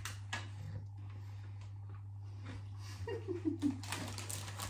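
Mouth-closed chewing of crunchy corn-puff snacks, with faint scattered crunches that thicken near the end, over a low steady electrical hum. About three seconds in, a short falling 'mm' hum of a voice.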